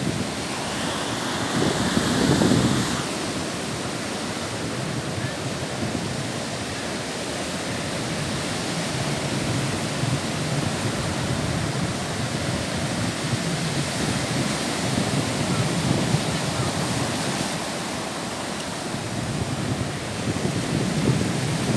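Baltic Sea waves washing on the shore as a steady rush of surf, with a louder surge about two seconds in and gentler swells after.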